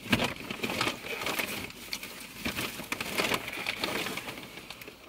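Two people chewing a fast-food hamburger and a chicken wrap close to the microphone, with many small irregular clicks and crackles from mouths and food.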